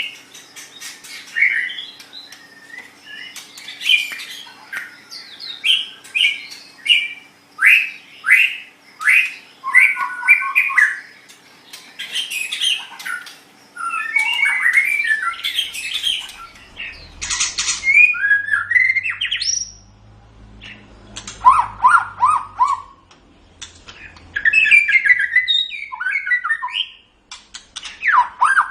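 White-rumped shama (murai batu) singing a rapid, varied song of short phrases: whistled glides, quick repeated notes and harsh chattering notes, with brief pauses between bursts.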